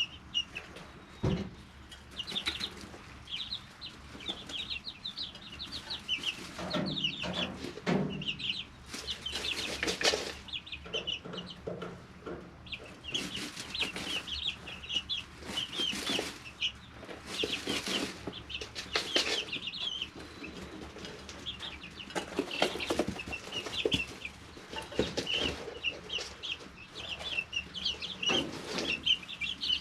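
A brooder of 3-week-old chicks peeping continually in short, high notes, with rustling noises now and then among them.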